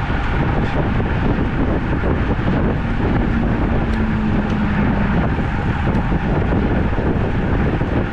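Steady wind rush on the microphone of a camera riding along on a road bike, with a short low hum about three seconds in.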